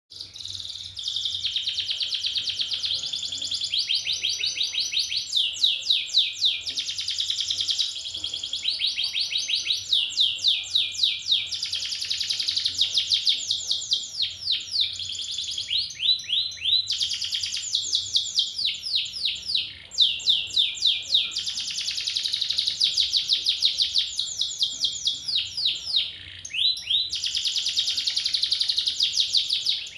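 Domestic canary singing a long, continuous song of high, fast trills and rapidly repeated notes. The phrases switch from one trill to another every second or two, with only brief pauses.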